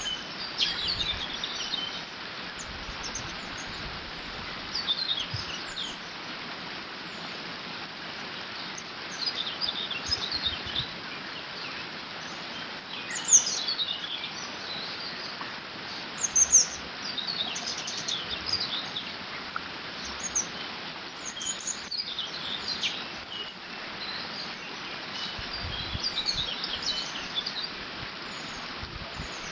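Water rushing steadily through a beaver dam, with small birds chirping and singing over it in short, high calls and trills, a few of them louder midway.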